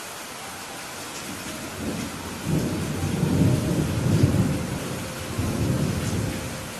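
Steady rain falling, with a roll of thunder that swells about two seconds in, rumbles for about four seconds and fades near the end.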